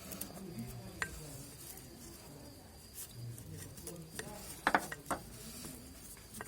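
Metal hand tools and parts clinking and clicking: one sharp click about a second in, and a quick cluster of louder clinks near five seconds.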